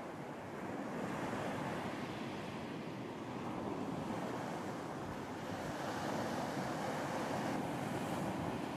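Ocean surf washing onto a beach, a steady rush of waves that swells a little about a second in and again around six seconds in, with some wind.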